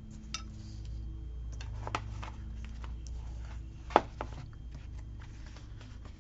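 Small clicks and taps from handling a planner and sticker sheets as stickers are peeled off and pressed onto the page, the sharpest click about four seconds in, over a low steady hum.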